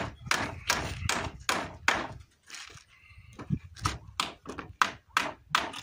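Hammer driving nails into wooden fence boards: a steady run of sharp strikes about two and a half a second, pausing for about a second and a half near the middle before starting again.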